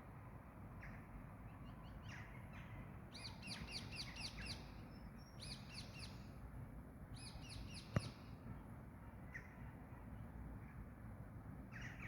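A songbird singing three phrases of quick repeated high, falling notes, with scattered single chips between them, over a steady low background rumble. A single sharp click comes about eight seconds in.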